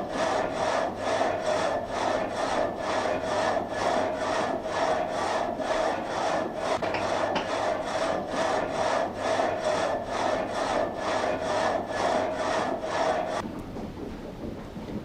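Water-driven vertical frame saw cutting through timber, its blades rasping in a steady rhythm of a little over two strokes a second. The sawing stops abruptly near the end, leaving a steady rushing noise.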